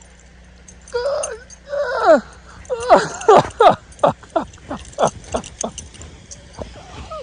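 A dog vocalizing: two wavering calls, then a quick run of short yelps, each dropping in pitch, about three a second, trailing off near the end.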